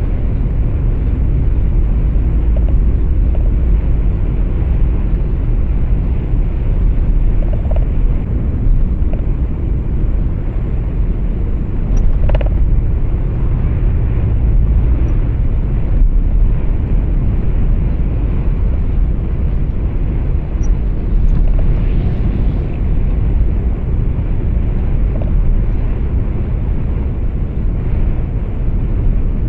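Steady low rumble of engine and road noise inside a moving truck's cab, with a brief faint click about twelve seconds in.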